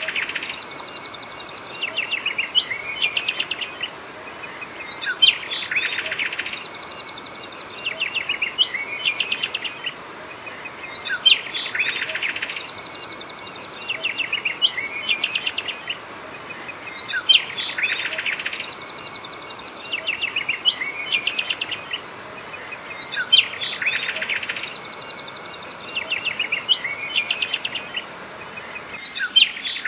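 Birdsong: a chirping phrase of quick repeated notes, recurring about every three seconds, over a steady hiss of water flowing over the weir.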